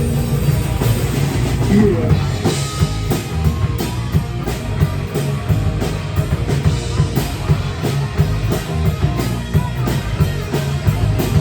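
Live rock band playing an instrumental passage: a drum kit hit at a fast, steady beat, with electric guitar, and no vocals.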